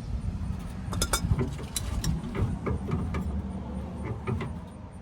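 Irregular metallic clicks and knocks from a tool turning a pickup's under-bed spare-tire winch to pay out its cable, over a steady low rumble.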